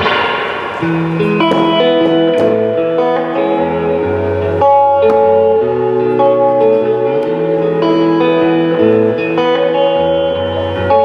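Guitar playing the intro of a slow, relaxed song. A strummed chord starts it, then picked notes and chords ring into each other as the chords change every second or so.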